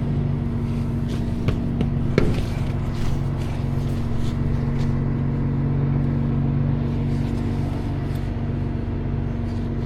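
Tow truck engine running steadily at idle, with a couple of sharp knocks about a second and a half and two seconds in.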